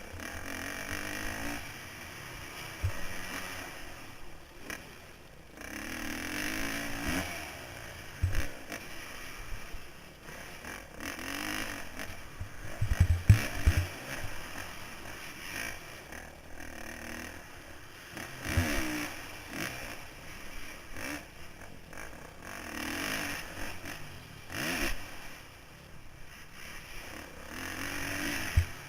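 2009 Kawasaki KX450F's single-cylinder four-stroke engine revving up and falling back again and again as the dirt bike is ridden around a motocross track, heard from the rider's helmet. A few short low thumps stand out, the loudest near the middle.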